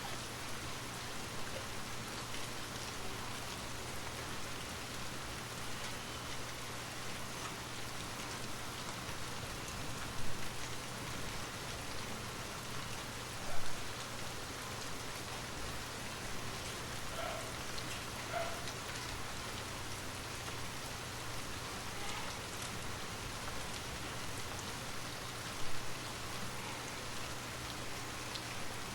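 Steady rain falling on a surface, an even hiss of drops, with three brief louder taps or splashes standing out, about ten seconds in, a few seconds later, and near the end.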